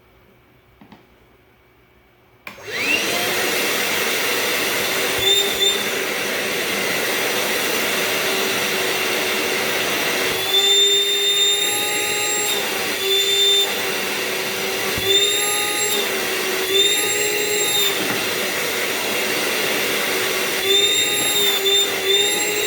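Hart 20-volt cordless shop vacuum switched on about two and a half seconds in, then running steadily with a motor whine. Several times the whine steps up slightly in pitch for a second or so before settling back.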